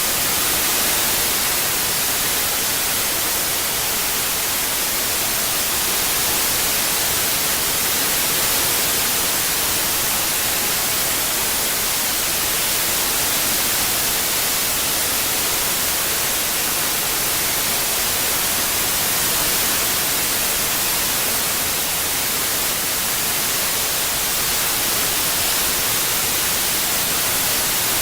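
Steady synthetic white noise for tinnitus masking: an even hiss, brightest in the treble, with slight slow swells in level.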